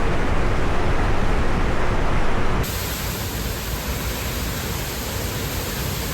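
Steady roar of rushing water, with no pitch to it. About two and a half seconds in it changes suddenly to a slightly quieter, brighter hiss.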